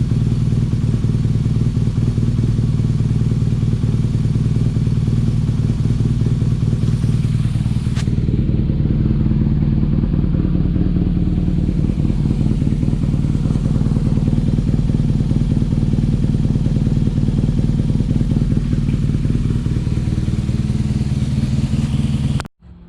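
BMW R nineT's air/oil-cooled boxer twin idling steadily, run to warm the oil before an oil change. The sound stops abruptly near the end.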